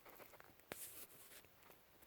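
Faint clicks and scraping from hand tools being handled, with one sharp click a little before a second in followed by a brief scrape.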